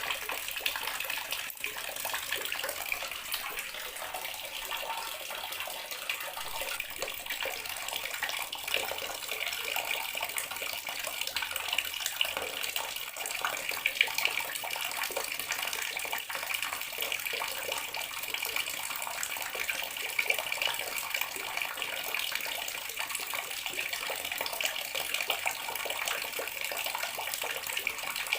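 Water running steadily from a bathroom sink tap into the basin, a continuous splashing rush.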